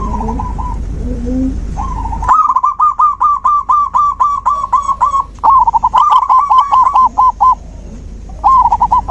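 Zebra dove (perkutut) singing in repeated phrases of rapid short cooing notes, about five a second, the longest lasting around three seconds. A low hum runs under the start and cuts off suddenly a couple of seconds in.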